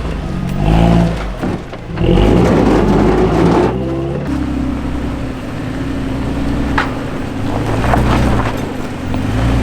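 Off-road truck engine revving unevenly under load as it climbs a hill, then settling into a steadier lower drone, with a couple of sharp knocks near the end.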